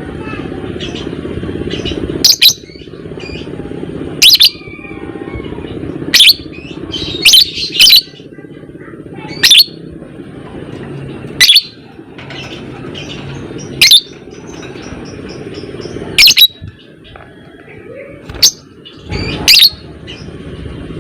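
Lovebird giving loud, short, shrill calls about every one to two seconds, over softer chattering, with a steady low hum underneath.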